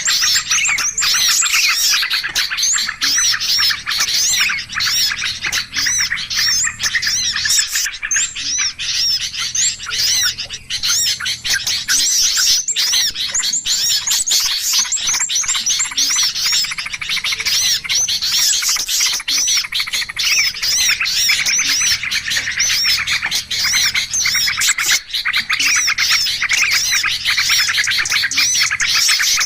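Dense chorus of many small birds chirping at once, quick high overlapping chirps without a pause: a bird-luring (pikat) call recording meant to draw in all kinds of birds.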